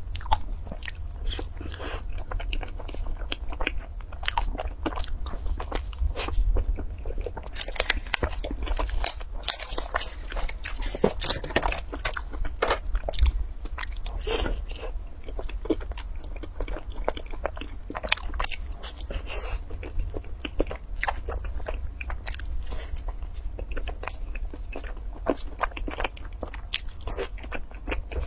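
Close-miked biting and chewing of a fried, cream-filled pastry ball: a dense, irregular run of small clicks and smacks from the mouth. A steady low hum runs underneath.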